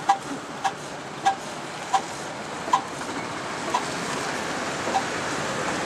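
1921 Lanz Bulldog's single-cylinder hot-bulb semi-diesel engine running with sharp, separate exhaust beats. The beats slow from about two a second to about one a second, as the engine settles just after being got going. A steady rushing noise builds from about halfway through.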